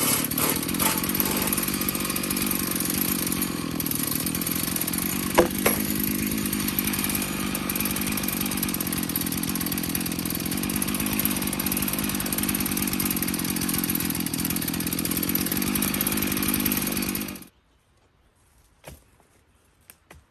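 Stihl MS 461 two-stroke chainsaw running steadily at high speed on an Alaskan chainsaw mill, ripping a cedar log into slabs. The sound stops abruptly a few seconds before the end, leaving only a few faint clicks.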